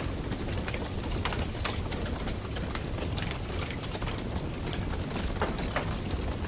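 Wood campfire burning, with frequent sharp crackles and pops over a steady low rush of flame.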